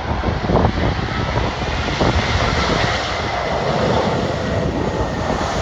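Strong gusty wind buffeting the microphone over the steady rumble of a jet airliner's engines.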